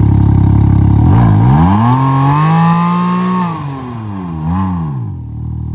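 Can-Am Ryker engine revved through a stock-looking exhaust that has been gutted and given a larger outlet port: idling, then rising about a second in, held up for a couple of seconds, dropping back, one short blip, and settling to idle again.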